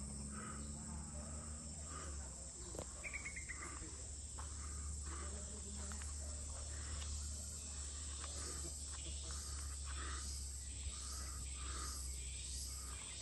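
Rainforest insects such as crickets and cicadas calling: a steady high-pitched drone with a pulsing call repeating about once a second. A brief high trill comes about three seconds in.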